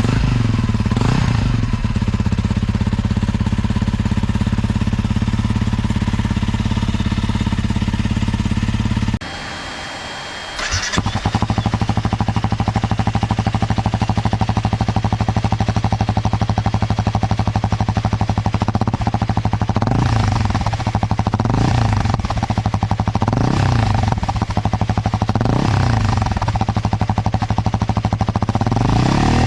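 Honda CRF250L single-cylinder engine idling through an aftermarket exhaust. There is a brief quieter break about nine seconds in. In the last ten seconds the throttle is blipped about five times, each rev rising and falling back to idle about two seconds apart.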